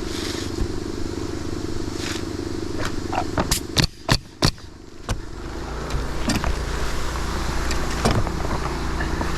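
A motor runs steadily, with a quick cluster of sharp knocks about three to four and a half seconds in.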